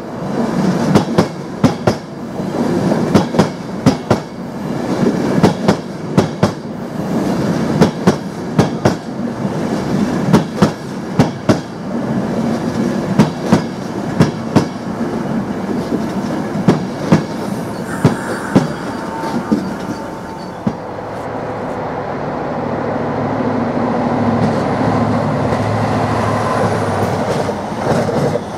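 A train passing, its wheels clicking sharply and rapidly over the track joints. After about twenty seconds the clicking fades into a steadier rumble with a low hum.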